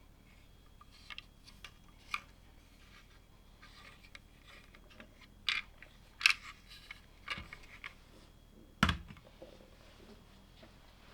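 LEGO plastic pieces clicking and tapping as they are handled, a few sharp clicks spread out, with a louder knock about nine seconds in.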